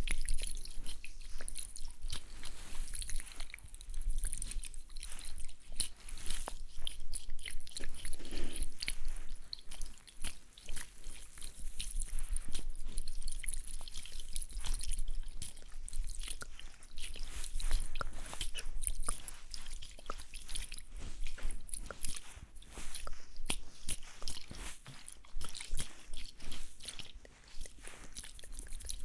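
ASMR trigger sounds: a dense, irregular run of crackly clicks and soft wet smacks.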